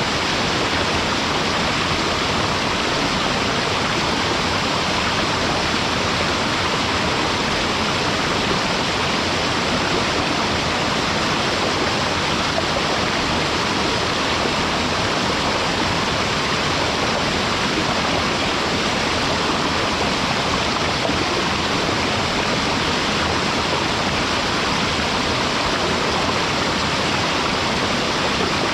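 Waterfall pouring into a mountain stream: a steady, even rush of falling water.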